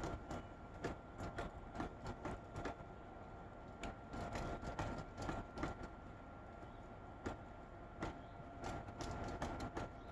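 Woodpecker pecking: irregular sharp taps coming in quick clusters with short pauses between them.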